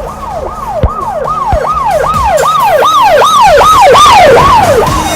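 Emergency vehicle siren in a fast up-and-down yelp, about two and a half sweeps a second, growing louder to a peak about four seconds in and then fading.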